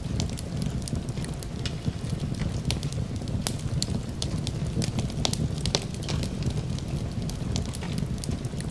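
Wood fire in a fireplace crackling, with frequent irregular sharp pops over a steady low rumble, mixed with the even hiss of rain.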